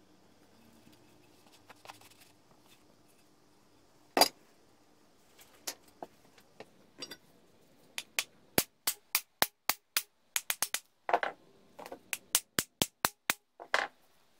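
Sharp clicks and knocks during workshop work on a vintage hand-crank grinder: one loud knock about four seconds in, a few scattered clicks, then a fast even run of clicks, about three a second, from about eight seconds in, with a few heavier knocks mixed in.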